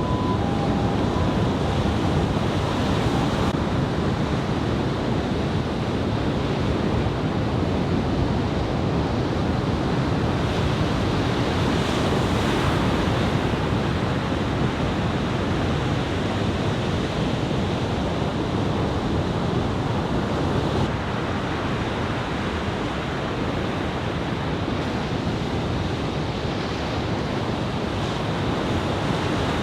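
Ocean surf breaking in a steady roar, with wind buffeting the microphone. A two-tone beeping alternates in the background for the first few seconds and then stops.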